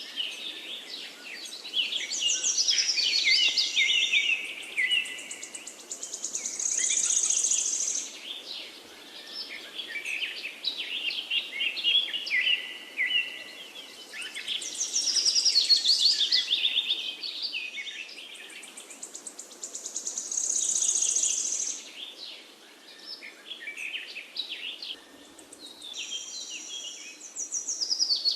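Forest songbirds singing: overlapping quick chirping phrases that swell and fade in waves every few seconds, with high buzzy trills now and then.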